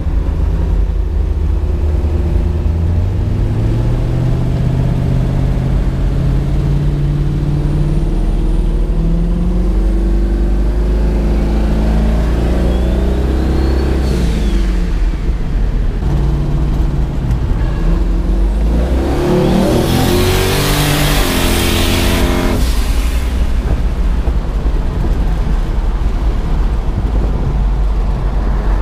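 Twin-turbocharged 5.3-litre LS V8 in a 1974 Chevrolet Nova, heard from inside the car, revving and accelerating several times. A high whistle rises and falls about halfway through. The hardest pull comes about two-thirds of the way in, with a loud rushing hiss and the engine note stepping down at the shifts, before it settles to steadier running.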